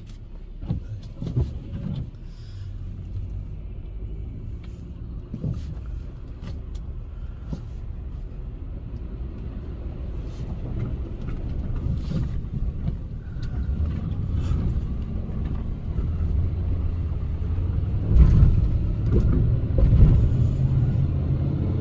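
Car driving: steady engine and road rumble heard from inside the cabin, growing louder through the stretch, with scattered knocks and a couple of louder surges near the end.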